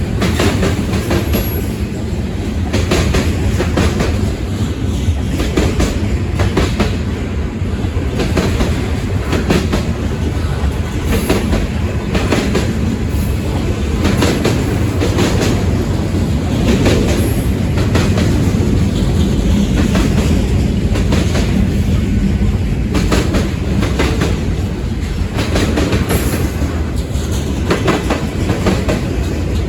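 Freight train cars rolling past, the wheels clacking over rail joints in an uneven run of knocks above a steady rumble.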